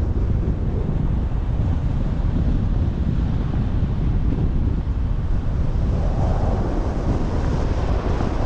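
Wind buffeting the microphone: a loud, steady low rumble, with a softer rushing hiss swelling about six seconds in.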